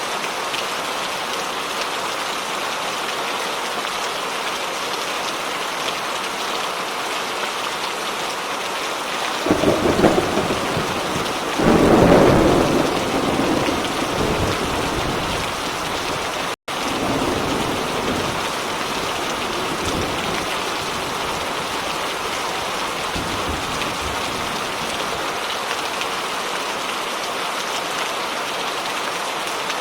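Steady heavy rain with rolling thunder: a first rumble about a third of the way in, then a louder, longer peal, and fainter rumbles later. A split-second dropout to silence comes mid-peal.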